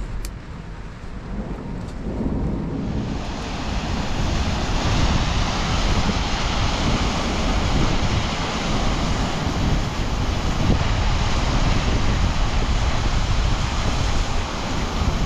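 Wind rushing and buffeting the microphone, a steady roar with a gusty low rumble that grows louder about two to three seconds in and then holds.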